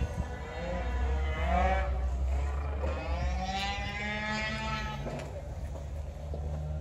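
Classic sports car engines running, revving up twice with the pitch climbing and easing back, over a steady low engine drone.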